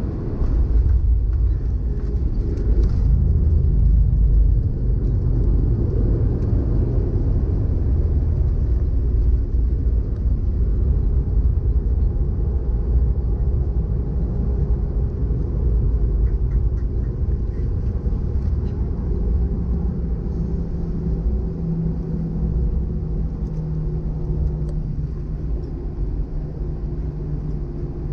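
Airbus A320-214 rolling on the ground after landing, heard from inside the cabin: a continuous low rumble of wheels and engines, loudest in the first few seconds and then settling to a steady rumble with a faint hum.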